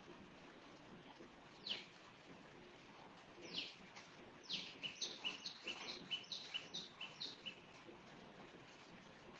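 A bird calling faintly: a few separate high, downward-sweeping calls, then a quick run of short falling chirps, about four a second, before it stops.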